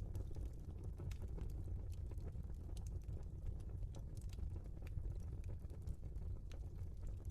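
Wood fire burning in a fireplace: scattered sharp crackles and pops from the burning logs over a low steady rumble.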